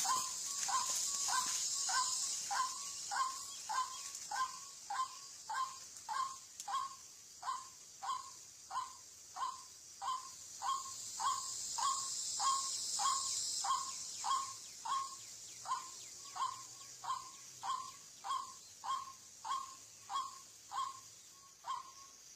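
White-breasted waterhen (ruak-ruak) calling, one short note repeated monotonously about three times every two seconds, over a steady high insect drone that fades out about two-thirds of the way through.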